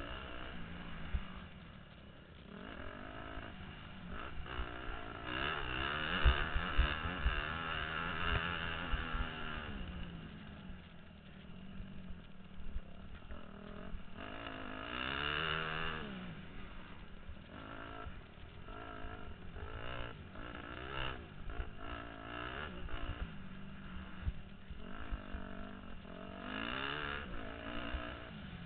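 Motocross dirt bike engine revving hard, its pitch climbing and dropping again and again as the rider opens and closes the throttle, heard from the rider's helmet. Wind rumble and short knocks run underneath.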